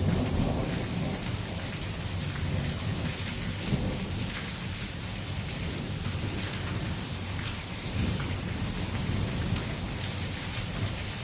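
Heavy rain pouring steadily during a thunderstorm, with a low rumble of thunder at the start that dies away.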